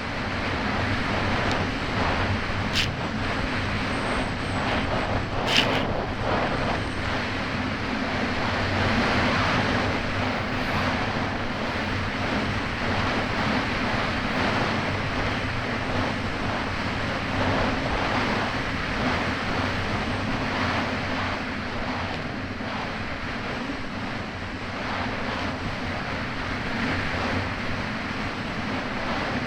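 Kawasaki Ultra 300X jet ski's supercharged four-cylinder engine running steadily under way, mixed with rushing water and wind buffeting the microphone. Two short sharp knocks come in the first few seconds.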